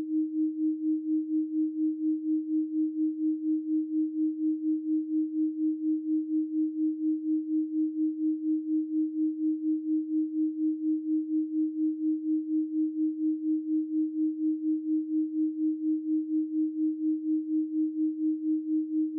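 A steady 312 Hz pure sine tone, pulsing evenly in loudness several times a second.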